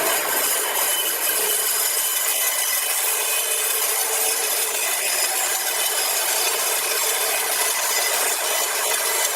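Saw blade cutting steadily through a large log: an even, unbroken sawing noise with faint steady tones running through it.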